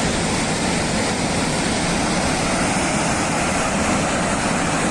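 Loud, steady roar of rushing water, with no breaks or single impacts.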